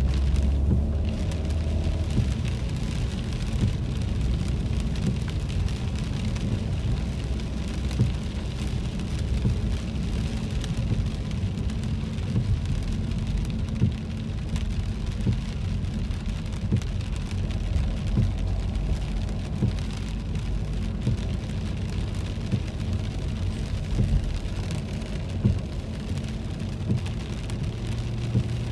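Rain falling on a moving car's windshield and roof, heard from inside the cabin: many small drop ticks over a steady low road and engine rumble.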